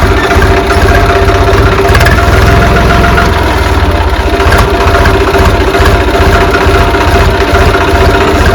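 Farm tractor's diesel engine running steadily with a loud, even low chugging.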